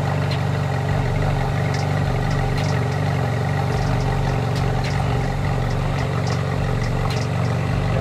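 Ferrari 458 Italia's V8 idling steadily, heard close to its exhaust.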